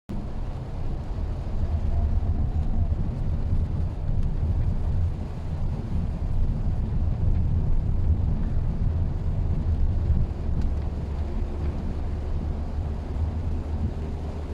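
Steady low rumble of a Mitsubishi Xpander being driven: engine and road noise heard from inside the cabin.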